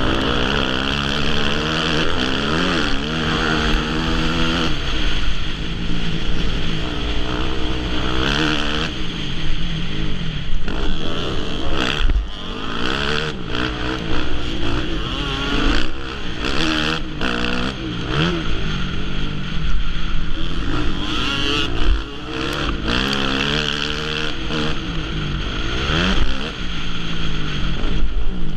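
Motocross bike engine revving up and falling back again and again, climbing and dropping in pitch as the rider works the throttle and gears, with a few sharp knocks along the way.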